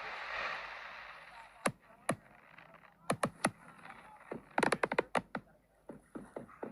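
Fireworks bursting: sharp, separate bangs and cracks, with a rapid cluster of them past the middle. Under them, a crowd's hubbub fades away during the first second or two.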